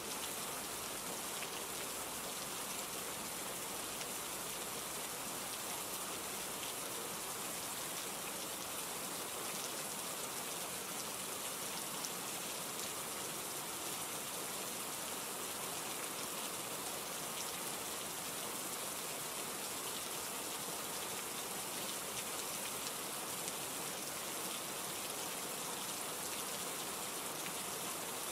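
Steady rain falling, with fine pattering drops on a surface and no thunder or other events.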